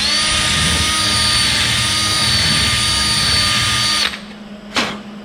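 Power drill running at a steady speed for about four seconds and then stopping abruptly, its bit wobbled around in drilled holes in sheet-metal latch parts to enlarge them slightly for tapping. A single click follows near the end.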